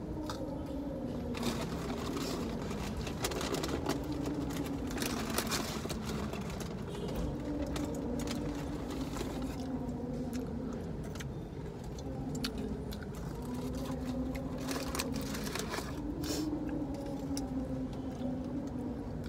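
Mouth-noises of chewing fried food and the crackle of a paper food wrapper in the hand, as short irregular clicks, over a steady low hum of the car's idling engine.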